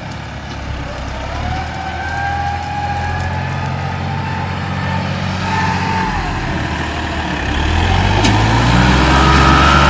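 New Holland farm tractor's diesel engine working hard while plowing brush-covered ground. The engine note is pulled down under load at first, then picks up in pitch and grows louder about eight seconds in.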